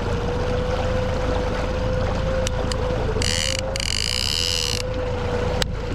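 Small fishing boat's outboard motor running steadily at trolling speed, with a steady whine over a low rumble. About three seconds in, a high mechanical whir comes in for about a second and a half, broken once, and a few sharp clicks sound.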